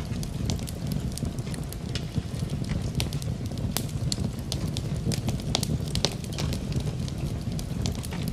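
Wood fire in a fireplace crackling, with irregular sharp pops and snaps over a steady low rumble, mixed with the even hiss of rain.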